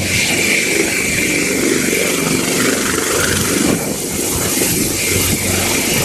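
AgustaWestland AW149 helicopter running: a steady engine and rotor noise with a high, steady whine running through it.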